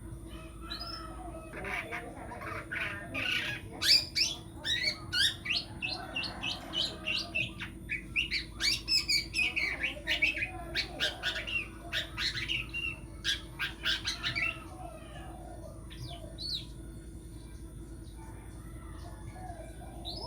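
Long-tailed shrike (cendet) singing a fast, dense run of short chirping notes for about thirteen seconds, then stopping, with two brief calls a little later.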